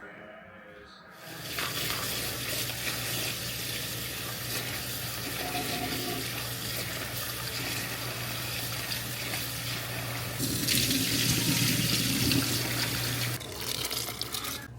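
Kitchen tap running into a sink: the water comes on about a second in, runs steadily, gets louder for a few seconds near the end, then is turned off.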